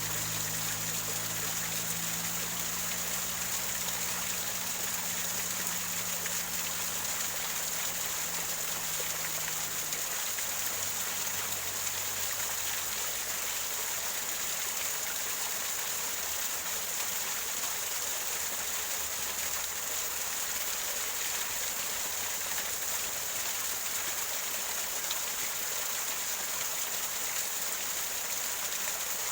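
Small waterfall of water splashing and gurgling over rocks, a steady rushing sound. A faint low hum underneath fades out about ten seconds in.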